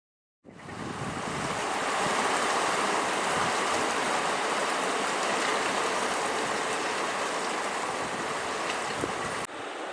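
Steady rush of a flowing river, a constant even noise that cuts in suddenly about half a second in and drops slightly in level near the end.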